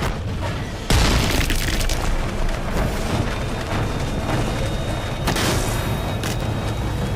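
A loud, sudden boom about a second in, followed by continuing dense rumbling noise, laid over a dramatic music score: a film sound-effect impact.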